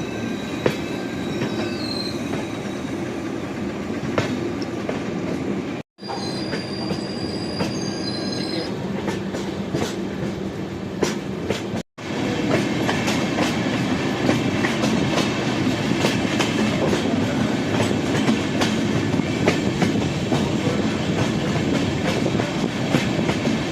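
Passenger train running on the track, with a steady rumble and a constant clatter of wheels on rail joints. Thin high wheel squeals sound through the first nine seconds or so. The sound breaks off for a moment twice, and the last part is a little louder.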